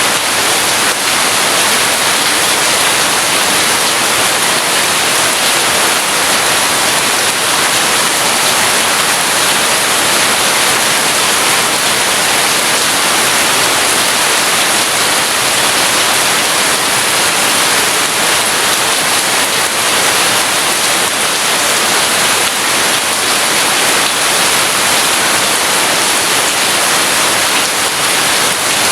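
Heavy rain falling as a steady, dense hiss, with no thunder.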